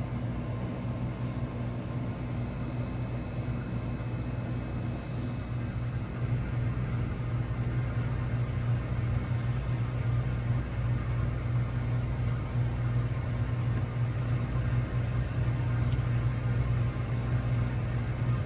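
Steady low mechanical hum, unbroken and slightly louder toward the end.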